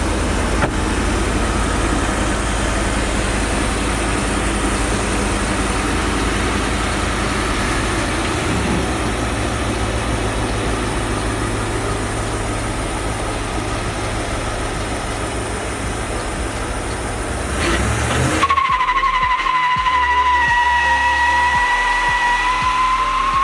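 Ford pickup truck doing a burnout: the engine is held at high revs while the tyres spin. About eighteen seconds in, the sound changes abruptly to a steady, high-pitched tyre squeal.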